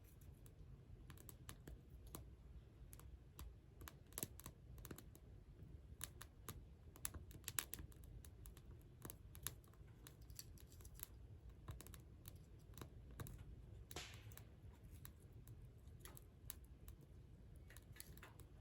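Faint, irregular sharp clicks and small snaps, with one short scrape about fourteen seconds in.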